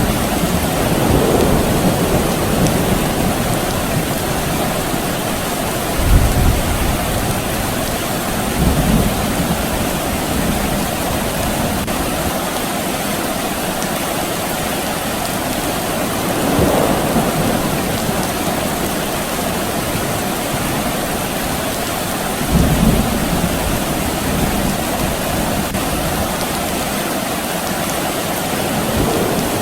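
Steady rain falling, an even hiss, with several short low rumbles of distant thunder spread through it, the strongest about six and twenty-three seconds in.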